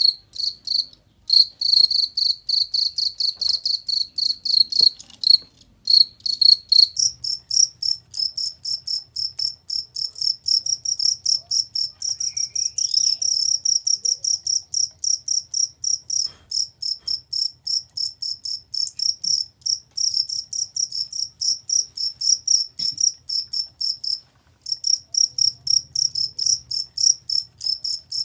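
Cricket chirping in a fast, even train of short high-pitched pulses, the pitch stepping up about seven seconds in, with a few brief pauses.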